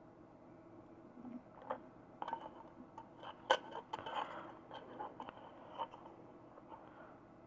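Light, irregular clicks and taps of small tools and parts being handled on a workbench, with one sharper click about three and a half seconds in.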